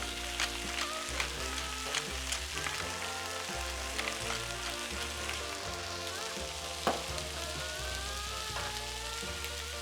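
Pan of cherry tomato sauce sizzling and crackling as it cooks, with scattered pops and one sharper knock about seven seconds in, over steady background music.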